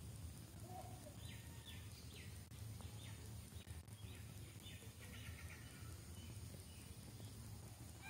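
A bird calling faintly: a run of short repeated notes, about two a second, starting about a second in and fading out after about six seconds. Under it is a low steady outdoor hum.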